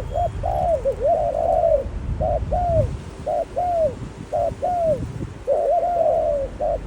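Doves cooing: short arched coos, mostly in pairs about once a second, with two stretches where calls overlap densely.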